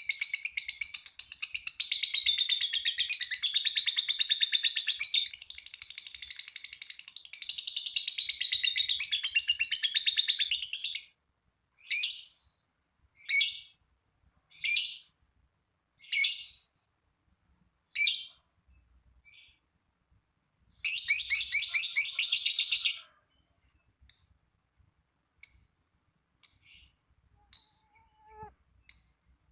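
Lovebird giving its long, rapid chattering trill (ngekek) for about eleven seconds, then single short high chirps about every second and a half. A second chattering run of about two seconds comes after the middle, followed by more short chirps.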